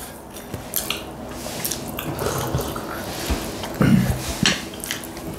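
Close-up mukbang eating sounds: wet chewing and lip smacking while eating rice and chicken by hand, with small clicks throughout. A brief murmur from a voice comes about four seconds in.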